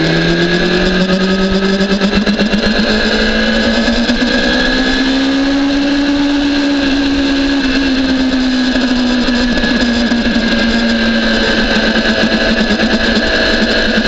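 BMW S1000RR's inline-four engine running at high revs under load. Its pitch rises steadily over the first six seconds, then eases slightly and holds steady.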